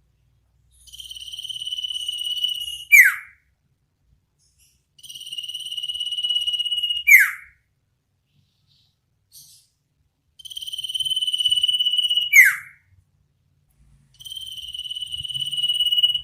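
Iora (sirtu) giving its 'ngetir nyipow' call four times: each phrase is a buzzing trill held about two seconds and swelling in loudness, ended by a sharp falling whistle.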